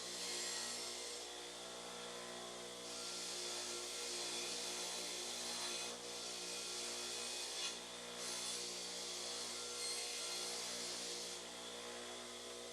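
A power tool's motor running steadily, with bursts of high hiss that come and go every few seconds.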